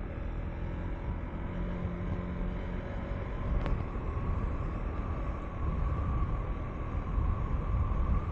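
KTM 390 Enduro R single-cylinder engine running as the motorcycle is ridden through loose sand, under a steady low rumble that swells in the second half. A single sharp tick about three and a half seconds in.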